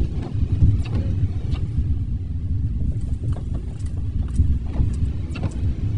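Car driving on a rainy road: a steady low rumble of tyres and engine inside the cabin, with scattered faint ticks.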